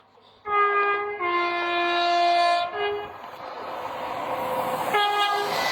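An approaching train sounds its two-tone horn: a short high note, a longer low note, a brief return to the high note, then one more short high blast near the end. Under the horn, the rumble of the train grows louder as it nears.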